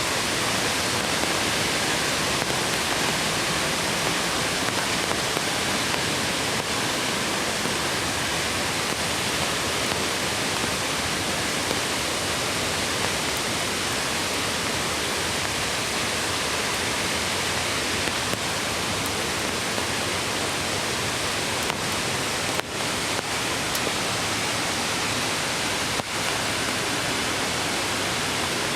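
Mountain stream running beside the path: a steady, full rush of flowing water.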